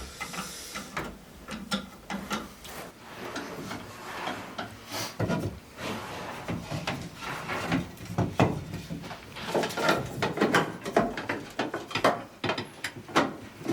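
Wooden lining boards being handled and fitted into place: irregular knocks and clunks of wood on wood, with scraping and rubbing between them.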